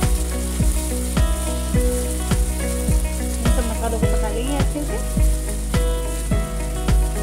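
Tomato purée and ground spices frying in oil in a non-stick kadhai, sizzling as a spatula stirs and scrapes through it. Background music with a steady beat of about two strokes a second plays over it.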